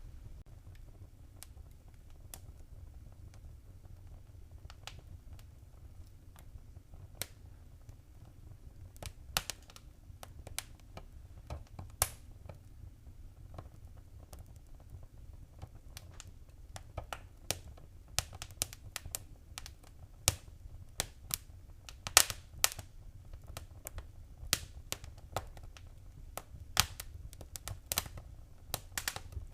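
Wood fire crackling in a fireplace: irregular sharp pops and snaps, sparse at first and coming more often in the second half, over a low steady rumble.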